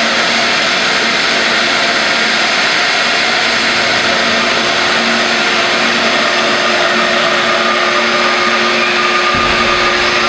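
Jet engine running steadily: a loud, even rush with a thin high whine over it, and a short low rumble near the end.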